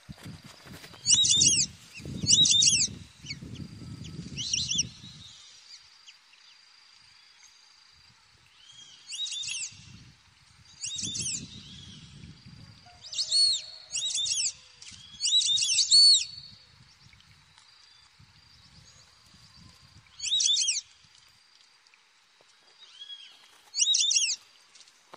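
A bird gives short, repeated chirps, about a dozen of them, some in quick pairs. Under them runs a faint steady high-pitched insect tone. In the first few seconds there is a low rumbling noise of wind or handling on the microphone.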